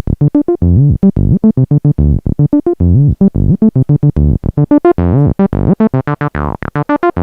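AudioRealism ABL2 software TB-303 emulation playing a fast staccato acid bassline, with sliding notes and the tone brightening around five seconds in before closing again. It is a largely clean signal, the distortion plugin's drive still at zero.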